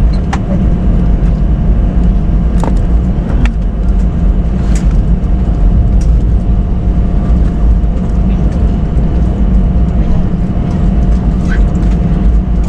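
Jet airliner cabin noise: a loud, steady low rumble with a faint steady tone over it, and a few light clicks.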